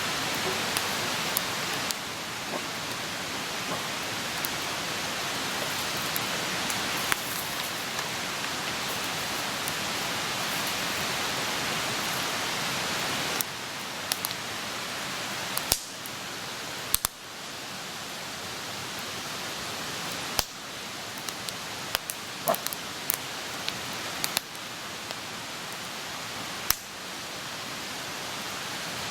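Wood campfire burning: a steady hiss of flames with scattered sharp crackles and pops from the burning wood.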